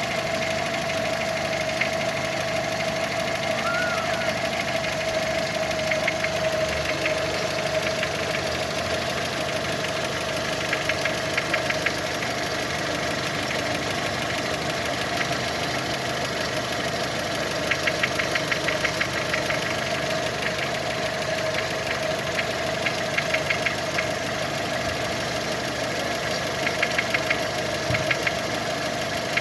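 Engine idling with a steady hum, broken every few seconds by short clusters of rapid sharp knocks. These come and go irregularly, an unexplained knocking whose cause is unknown.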